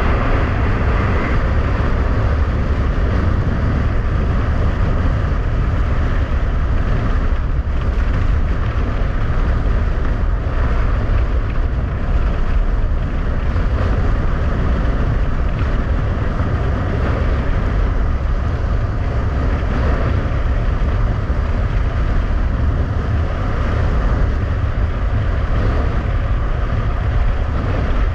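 Strong wind buffeting the microphone in a steady, heavy low rumble, over the continuous rushing hiss of skis running fast across rough ice.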